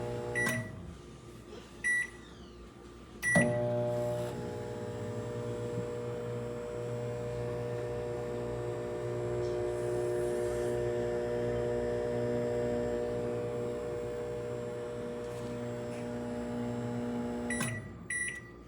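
Emerson MWG9115SB-N microwave oven running with a steady hum. It stops just after the start and its keypad beeps three times, the third beep as it starts up again. It then runs steadily for about fourteen seconds and stops near the end with two more beeps.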